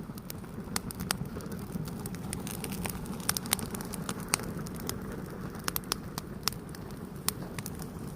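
Fire burning, with irregular crackles and pops over a steady low rumble.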